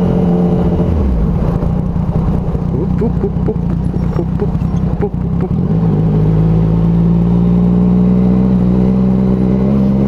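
Yamaha MT-09's three-cylinder engine through an aftermarket exhaust while riding, loud. About a second in, the steady note breaks into a rough, crackling stretch for several seconds as the revs drop. The engine then picks up again with a steady note that rises slowly.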